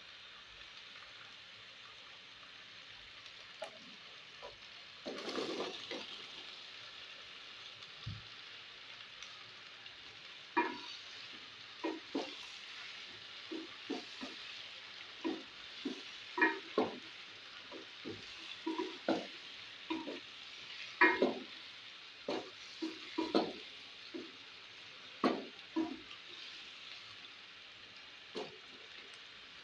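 Tomato masala frying in oil in a pot, with a steady sizzle that swells about five seconds in as cubed raw potatoes go in. Then a wooden spoon stirs the potatoes through the masala, knocking and scraping against the pot many times.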